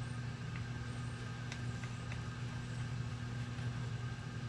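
A steady low hum, with a few faint light clicks of small parts being handled while a small chainsaw is put back together.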